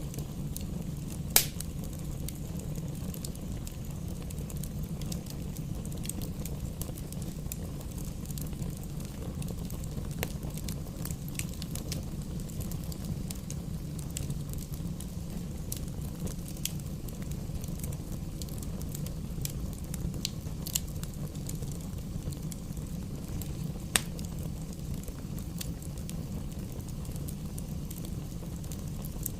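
Campfire burning: a steady low rumble of flames with scattered crackles and pops of burning wood. The sharpest pops come about a second and a half in and again a few seconds before the end.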